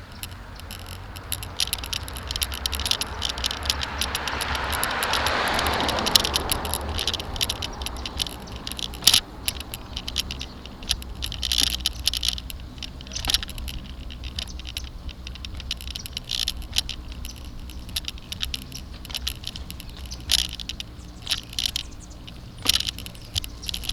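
Bicycle and its mounted camera rattling and clicking over a bumpy sidewalk while riding, over a steady low rumble. A rushing noise swells and fades about five seconds in.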